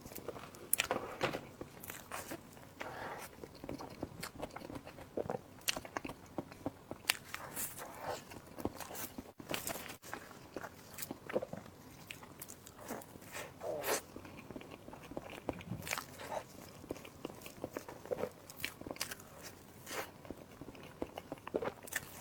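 Close-up eating sounds: irregular crunchy bites and chewing, a series of sharp crackles and smacks spaced unevenly throughout.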